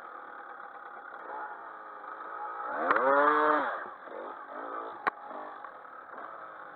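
Dirt bike engines running, with one bike revving hard and passing close about halfway through, its pitch rising then dropping away. A single sharp click comes shortly after.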